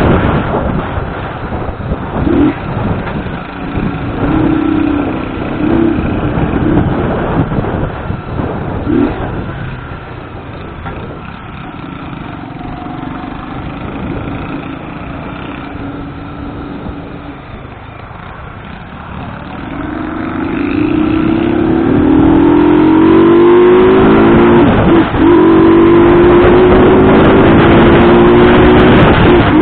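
Motorcycle engine on the move with wind rushing over the microphone. Past the middle it accelerates, its pitch climbing in several steps as it goes up through the gears, then it runs loud and steady.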